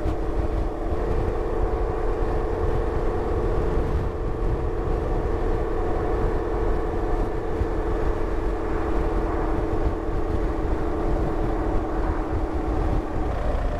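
BMW R1200GSA's boxer-twin engine running at a steady cruising speed under wind and road rumble; the steady engine note drops away near the end.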